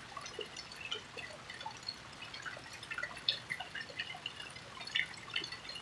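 Rain dripping and pattering: many small, irregular drops landing, several a second, over a faint hiss.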